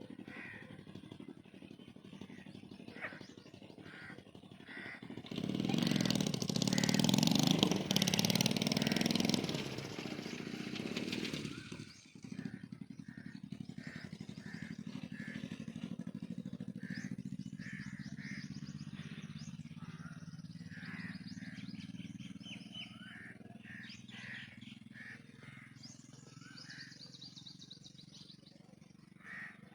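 Birds calling in short repeated notes throughout. A motor vehicle goes by loudly about five seconds in and fades by about eleven seconds, then a low engine drone runs on under the calls.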